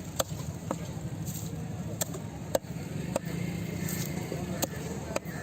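Knife chopping through a parrotfish on a cutting block: about seven sharp chops at uneven intervals over a steady low background rumble.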